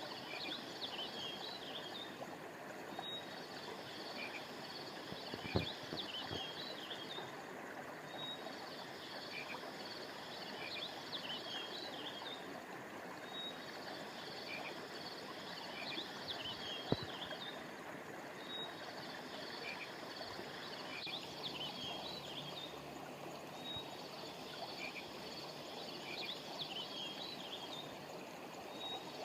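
Steady rush of flowing river water under a chorus of high chirping calls that comes back in the same pattern about every five seconds. Two sharp clicks stand out, one about five seconds in and one about seventeen seconds in.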